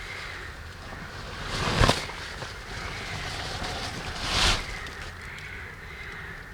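Tarp being handled and pulled over the opening of a tree hollow, with two brief rustling swishes about two and four and a half seconds in, over a steady high background drone.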